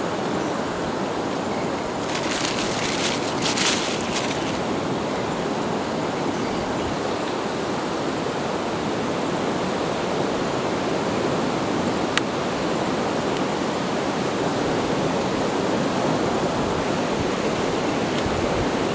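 Steady wash of high surf breaking on a beach, mixed with strong wind and rain. There is a brief crackle about two to four seconds in and a single sharp click near the middle.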